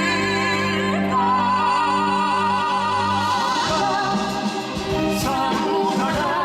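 Musical theatre song: a singer holding long notes with wide vibrato over an orchestral accompaniment, which turns busier and more rhythmic about halfway through.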